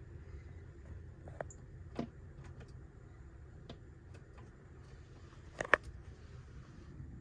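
A bird tapping its beak against the house: scattered sharp taps, the loudest a quick double tap near the end.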